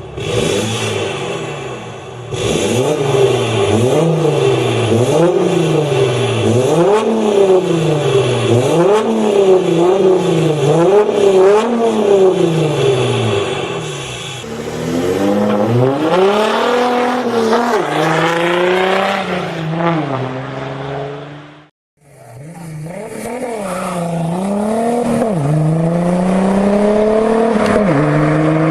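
Turbo-diesel car engines. First one is revved up and down again and again, about once a second. Then engines accelerate hard, rising in pitch with sudden drops at each gear change, with an abrupt cut between two runs about 22 seconds in.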